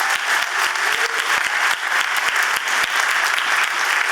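A theatre audience applauding steadily, a dense run of many hand claps.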